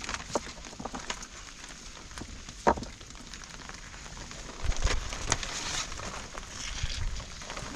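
Steady rain with scattered crackles and knocks; one sharp knock comes about two and a half seconds in.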